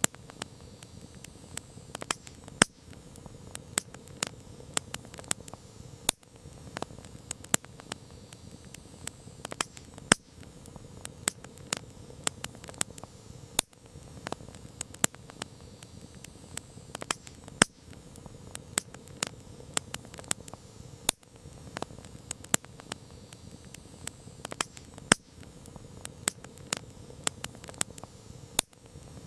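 Campfire burning, with frequent sharp crackles and pops at irregular intervals over a steady low rush of flames.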